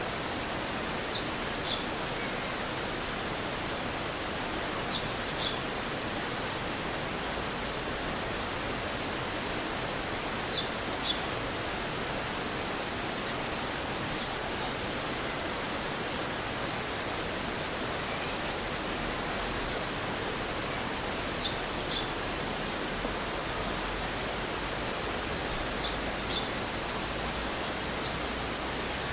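Steady rushing of a stream's flowing water. Brief high chirps, two or three notes each, come about six times, a few seconds apart.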